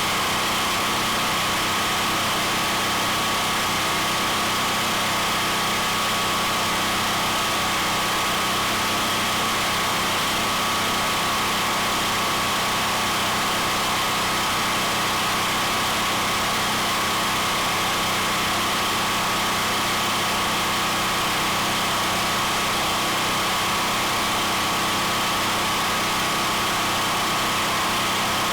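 Steady machine hum from a running motor, with a constant high whine over a low drone and no change in speed.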